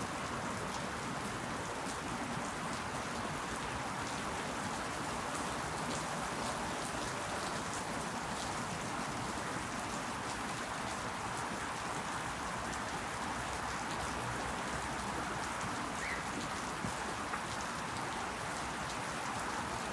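Steady rain falling, an even patter of drops with many small individual drop ticks, hitting leaves.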